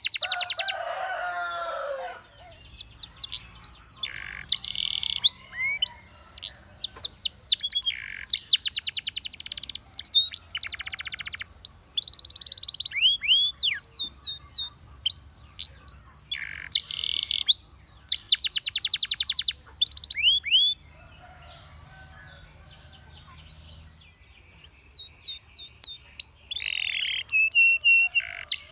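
Domestic canary singing: fast trills of repeated notes alternating with rising and falling whistled notes, broken by a pause of a few seconds about three quarters of the way through.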